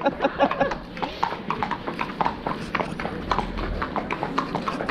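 Hooves of two ridden horses walking on hard paving: an uneven, overlapping clip-clop of hoofbeats.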